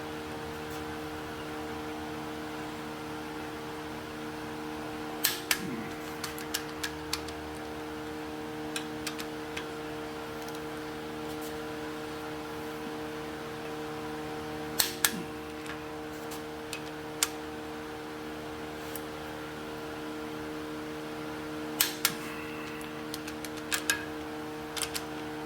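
Steady hum with sharp metallic clicks, mostly in pairs, several seconds apart, and lighter ticks between them. These are the sounds of a wrench and socket being worked on an engine's cylinder-head bolts during the final angle-tightening step.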